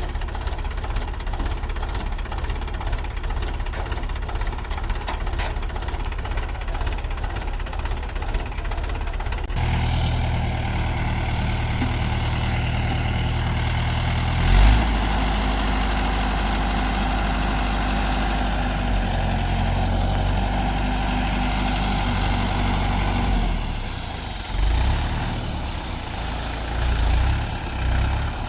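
Heavy diesel engine running steadily. About a third of the way in it grows louder and deeper, with a brief loud jump midway. Near the end it drops back, then surges up a few times in short bursts.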